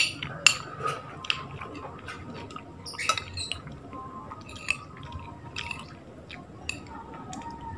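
A person eating close to the microphone: wet chewing and lip smacks with irregular sharp clicks, the loudest right at the start and about half a second in.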